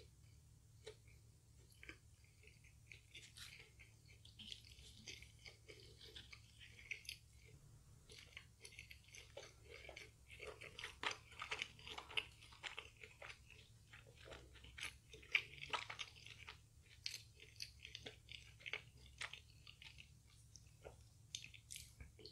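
A person chewing crispy fried chicken: soft mouth sounds with many small crunches of the fried coating, busiest about halfway through.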